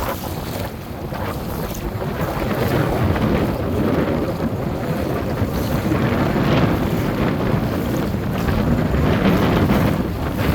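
Wind buffeting the microphone over the rush of waves and moving water.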